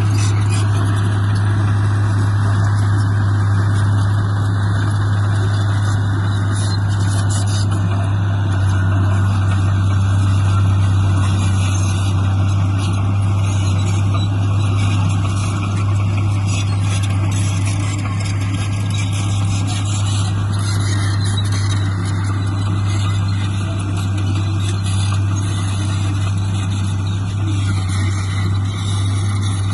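Heavy diesel engine of earthmoving equipment running steadily and loudly, with a strong low hum.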